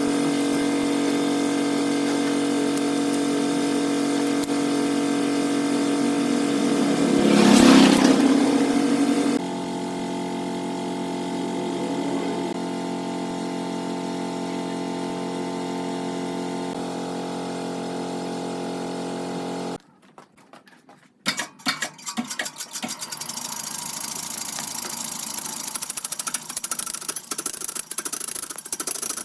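Steady machine drone with a pitched hum. It changes abruptly about nine seconds in and stops about twenty seconds in. Then comes irregular scraping with many small clicks, the sound of a tool working wood.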